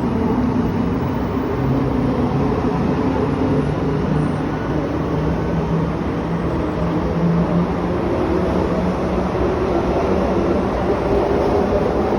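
Electric train running, with a steady rumble and a motor hum that slowly rises in pitch as it gathers speed.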